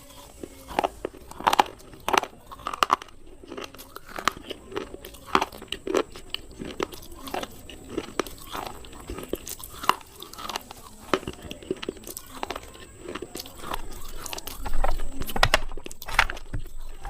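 Slate pencils being bitten and chewed close to the microphone: crisp, irregular crunches and snaps, a few each second, loudest about three-quarters of the way through.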